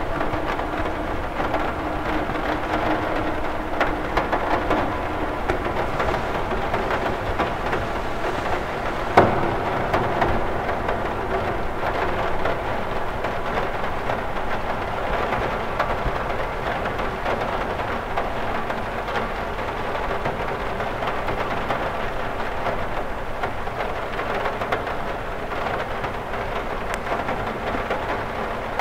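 Steady rain falling on a cathedral window: an even hiss of drops with scattered small taps, and one sharper tap about nine seconds in.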